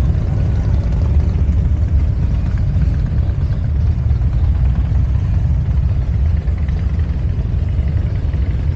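Motorcycle engines running and idling, a steady low-pitched engine sound with no single bike standing out.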